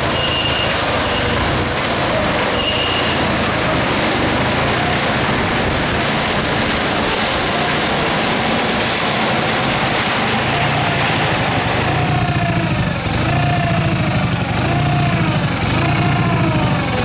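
The Onan B43 flat-twin engine of a Case 446 garden tractor running near idle, driving a hay elevator through a 540 PTO shaft, with a steady mechanical din. From about twelve seconds in, the sound takes on a rhythmic rise-and-fall roughly once a second.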